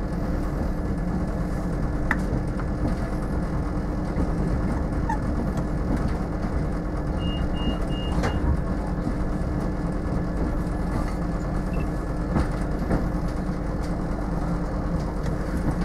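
Passenger train running on the track, heard from inside the carriage: a steady rumble with a constant hum and occasional clicks and knocks. A short run of high beeps sounds about halfway through.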